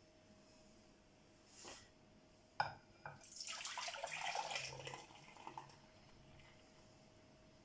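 A sharp clack and a second knock, then about two seconds of splashing water, over a faint steady hum.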